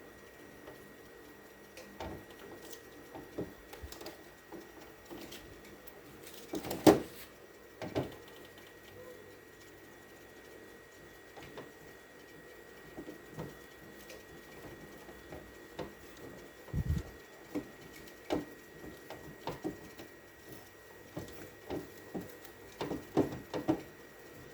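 Scattered knocks and clatter of things being handled while a refrigerator is cleaned out, with one sharp loud knock about seven seconds in and a quick run of knocks near the end, over a faint steady hum.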